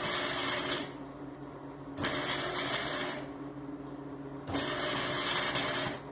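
Three hissing bursts, each lasting about a second, with short pauses between them, over a faint steady low hum.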